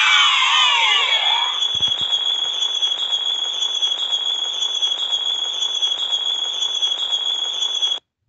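Sound effect: a shower of many falling whistling glides, then a steady fizzing hiss with a high whine that cuts off suddenly near the end.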